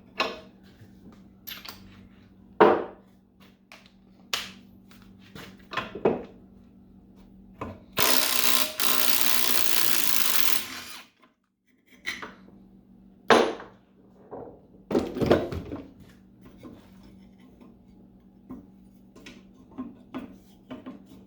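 Hand tools knocking and clanking on a cast-aluminium gearbox housing, with a power tool running for about three seconds in the middle. A faint steady low hum sits underneath.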